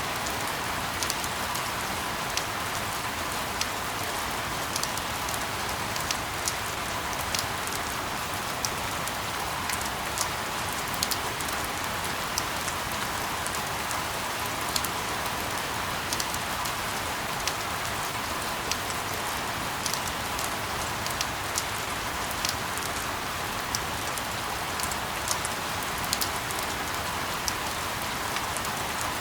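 Steady rain falling: an unbroken hiss with frequent, irregular sharp drop ticks scattered through it, played as a sleep noise loop.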